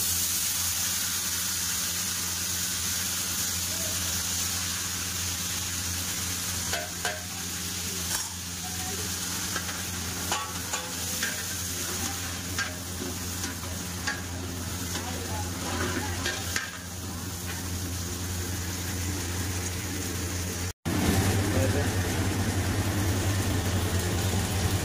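Soaked mung dal and water poured into hot oil in an aluminium pot, sizzling, with the hiss strongest in the first few seconds. A metal ladle then stirs and scrapes the pot, making scattered clicks over a steady low hum.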